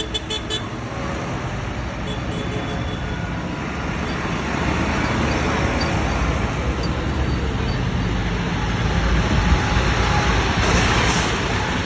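Tractor engines running as a procession of tractors passes, a steady low rumble that swells a little near the end. A brief rapid pulsing tone sounds at the very start.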